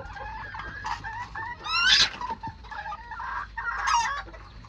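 Old English game bantam chickens clucking and calling, with the loudest calls about two seconds in and again near four seconds.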